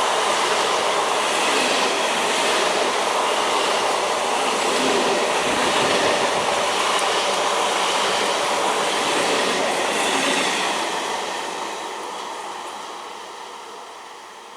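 A train running past at speed, its wheels loud on the rails, then fading steadily as it moves away from about ten seconds in.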